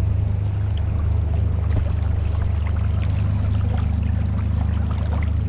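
A trout stream running: a steady low rumble with many small splashing and trickling sounds scattered through it.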